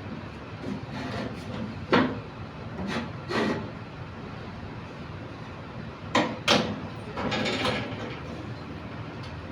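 Workshop handling sounds: several sharp knocks of hard parts, three spread over a couple of seconds and then a quick pair, followed by a short scrape, over a steady background hiss.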